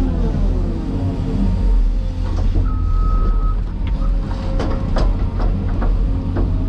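Cat 336E hydraulic excavator's diesel engine running under load, its pitch shifting as the hydraulics work, with several sharp metallic clanks about two thirds of the way through.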